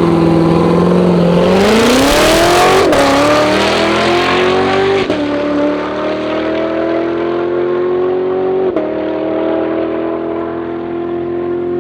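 A car's engine accelerating hard down a drag strip. Its pitch climbs steadily, then drops sharply with upshifts about three, five and nine seconds in.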